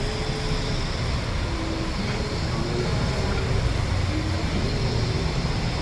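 Steady city traffic rumble from buses and trams running on the street. A faint melody of short held notes, stepping up and down, plays over it.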